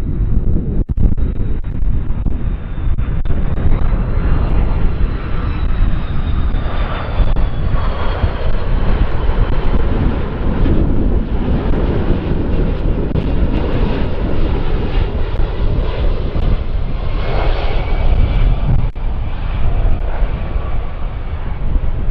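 Jet airliner engines running, a high whine that rises slightly about four seconds in and then slowly falls in pitch, over a heavy low rumble of wind on the microphone.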